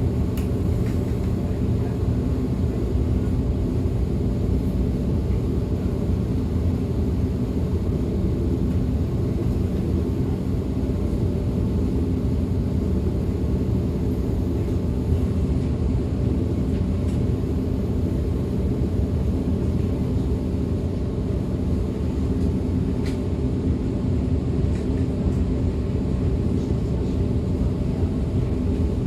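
DB Class 425 electric multiple unit running at speed, heard on board: a steady rolling rumble of wheels on track with a faint electric motor hum.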